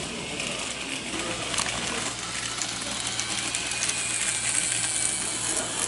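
N-gauge model train running on the track: a light, fast clicking of small wheels over rail joints over a steady motor hum, with a high whine that grows louder past the middle.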